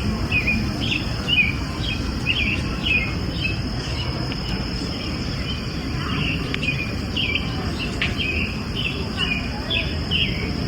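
An insect trills steadily on one high note while a bird gives short repeated chirps, about two a second, pausing for a couple of seconds midway. A low background rumble runs underneath.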